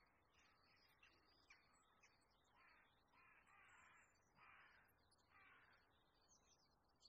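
Faint bird calls: four drawn-out, hoarse calls about a second apart through the middle, with small high chirps from other birds.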